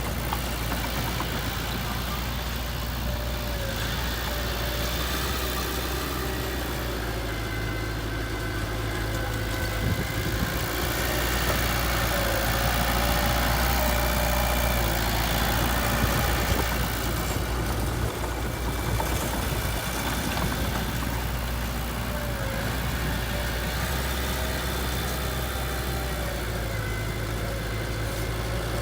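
Heavy diesel engine of construction machinery running steadily near idle, swelling a little louder for a few seconds in the middle.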